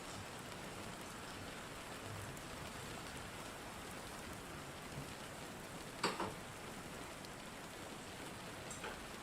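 Steady rain falling, with a sharp click about six seconds in.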